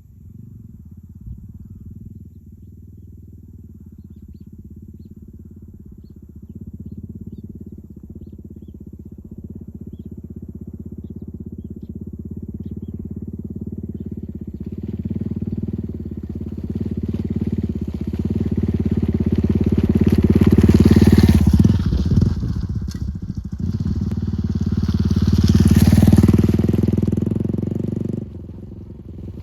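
Suzuki Volty motorcycle's single-cylinder four-stroke engine running, growing steadily louder, with two loud surges of engine and rushing noise in the later part before it drops off sharply near the end.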